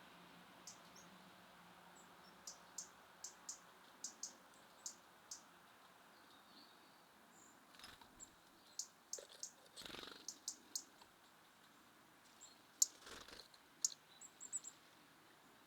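Small songbirds at a feeder: scattered short, high chirps and ticks coming irregularly, with two fuller, noisier sounds about ten and thirteen seconds in.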